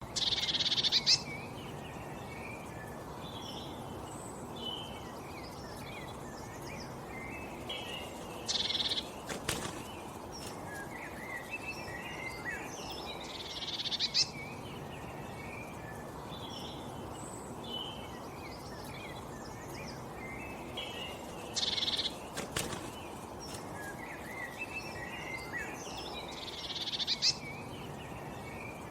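Several birds chirping and twittering in short, quick notes over a steady hiss of outdoor background noise. A louder, rasping call breaks in about every five to eight seconds.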